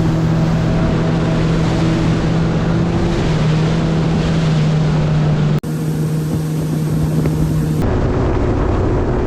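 Jet ski engine running steadily under way, with wind buffeting the microphone and water rushing. The sound changes abruptly about five and a half seconds in and again near eight seconds, the engine note steady between the changes.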